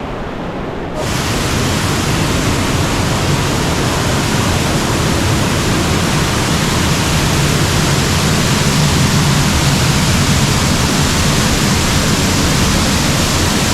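Waterfall pouring close by: a loud, steady rush of falling water that gets louder about a second in.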